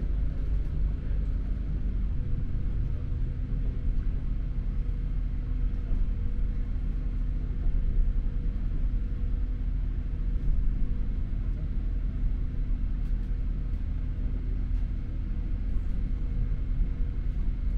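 Steady low rumble inside a diesel multiple unit passenger train running at speed: wheels on the rails and the underfloor engine, with a steady hum under it.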